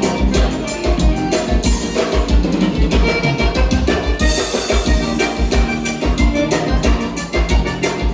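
Live gaúcho dance music played instrumentally by a band, with a steady bass-drum beat under pitched melody instruments.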